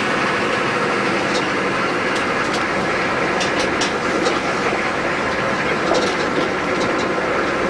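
Vehicle driving, heard from inside the cab: steady engine and road noise with scattered light clicks and rattles.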